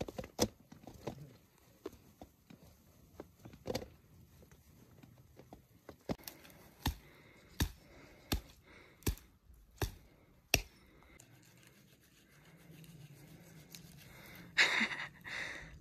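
Dry wood cracking as it is broken up for firewood: a few scattered sharp cracks, then a steady run of about seven, roughly one every 0.7 seconds, then a brief loud rustle near the end.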